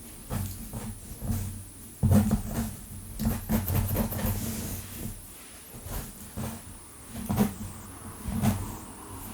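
Long fingernails scratching and raking through hair on a scalp close to the microphone, in quick, irregular strokes with a deep rumble under them, loudest about two to four seconds in.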